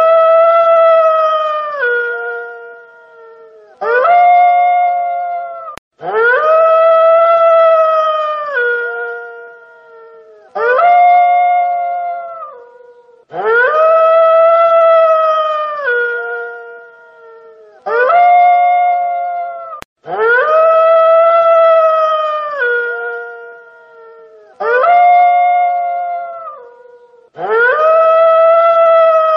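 A wolf howling over and over, about nine howls. Each rises quickly to a held note and drops in pitch at the end. Long and short howls alternate in the same repeating pattern.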